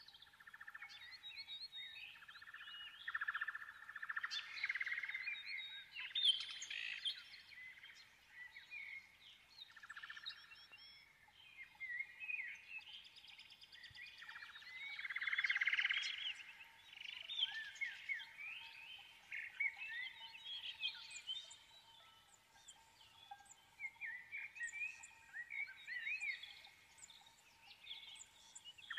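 Birdsong: many overlapping chirps and short whistles from small birds, coming and going throughout.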